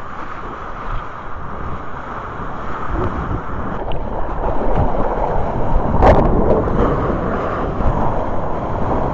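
Ocean surf with wind buffeting the microphone, a rushing noise that grows louder about halfway through, with a brief splash around six seconds in.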